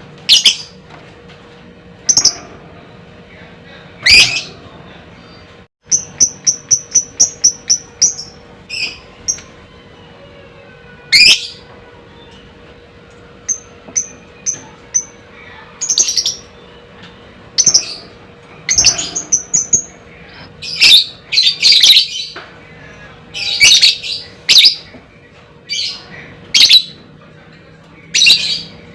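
Fighter lovebird calling in sharp, shrill chirps and squawks. About six seconds in it gives a quick run of short repeated notes, and near the end the calls come thick and fast.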